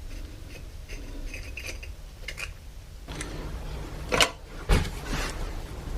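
Hand tools clinking and scraping on metal while a starter motor is unbolted from an old excavator, with two louder metallic knocks about four and five seconds in.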